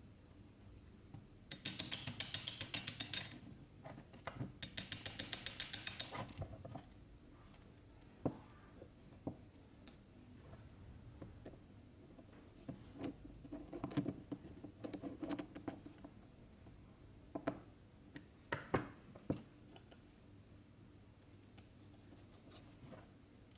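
Small carburetor parts being worked by hand. There are two spells of rapid scratchy clicking, each about a second and a half long, followed by scattered light clicks and taps of small metal parts.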